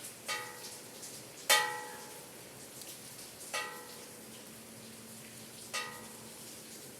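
Bells struck by rain, ringing four times at uneven intervals with a clear tone that dies away after each strike, the second strike the loudest, over a steady patter of rain.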